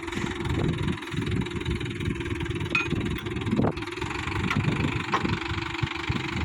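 Tractor's diesel engine running steadily, with a fast even firing pulse and a steady hum. A few sharp knocks sound over it in the middle.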